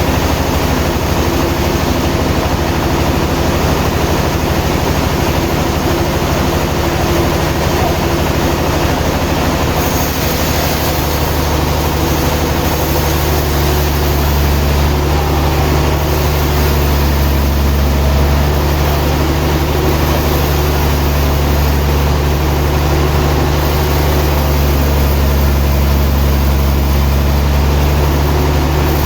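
Sawmill machinery running with a steady, loud, low engine hum, which grows heavier about a third of the way in.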